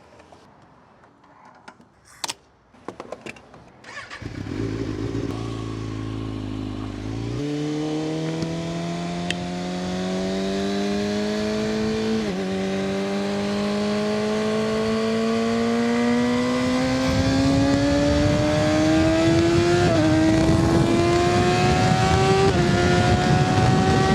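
A few clicks, then a Kawasaki ZX6R's inline-four engine comes in about four seconds in and idles briefly. It then pulls away and accelerates through the gears, its pitch climbing steadily with short dips at each upshift, under growing wind noise.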